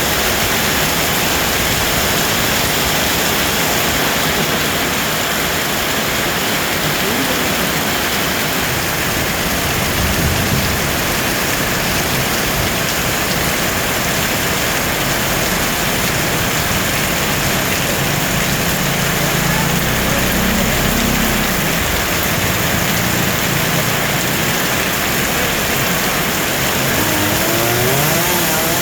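Two-stroke chainsaw engine running under a steady heavy hiss, revving up with a rising whine near the end, while a fallen tree is being cut up.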